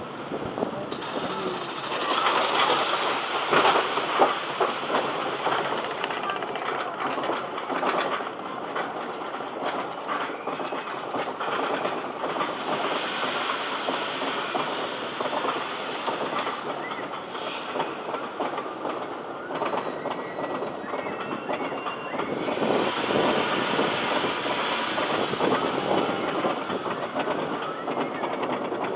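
Roller coaster train rolling along its track, wheels clattering, louder in two stretches.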